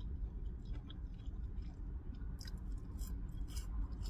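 A person chewing food close to the microphone, with scattered short mouth clicks over a low steady hum.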